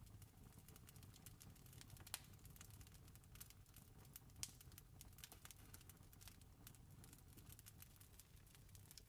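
Faint campfire crackling: irregular small pops and snaps of burning wood, with two sharper pops about two seconds in and halfway through, over a steady low rumble.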